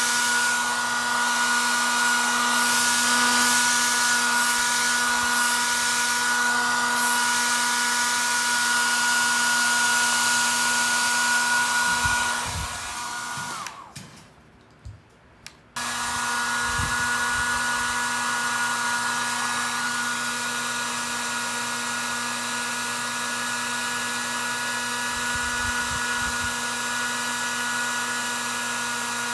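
A hand-held electric hot-air blower running steadily with a whirring hum. It winds down about twelve seconds in, is silent briefly, then starts again suddenly around sixteen seconds and keeps running.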